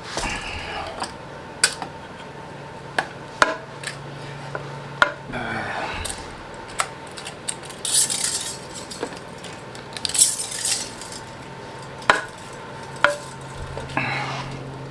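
Scattered metallic clinks, knocks and clatter of tools and parts being handled during a front-mount intercooler install, with two short rasping bursts about eight and ten seconds in.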